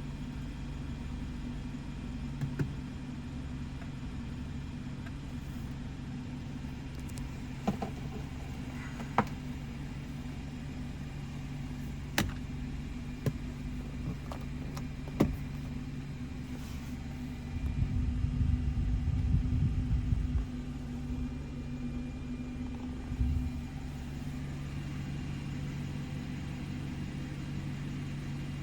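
2017 BMW 330i xDrive wagon's 2.0-litre turbocharged four-cylinder idling steadily. Sharp clicks sound now and then through the first half, and a louder low rumble lasts a few seconds about two-thirds of the way through.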